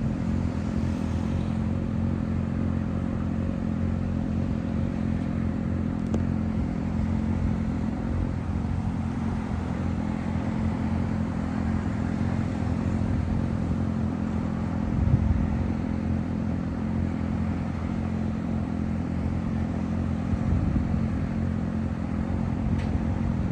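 A motor vehicle engine running steadily with an even low hum. There is one brief louder knock about halfway through.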